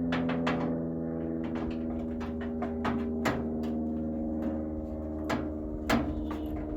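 Irregular metallic clinks and knocks as a 5/16 socket works bolts out of a microwave oven's sheet-metal housing and the loose parts are handled, over a steady low hum.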